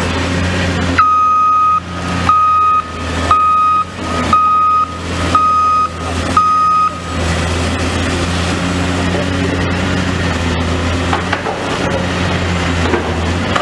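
Diesel engine of heavy demolition plant running steadily, while a reversing alarm beeps six times, about once a second, then stops about halfway through.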